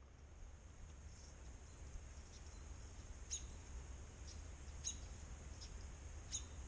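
Small bird chirping faintly, a string of short high chirps, the clearest coming about every second and a half, over a steady low background rumble.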